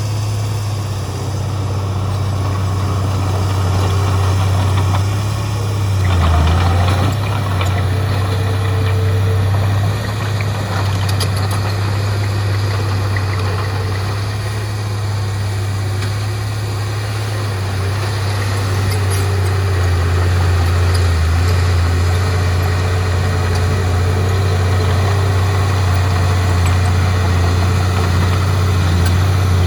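Heavy diesel engine of earthmoving machinery running steadily with a deep, even hum, briefly changing pitch about six seconds in.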